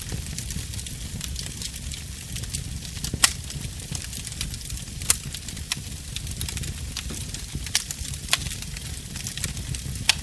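Fire burning in a fireplace: a steady low rumble with constant small crackles and about five sharper, louder pops spread through.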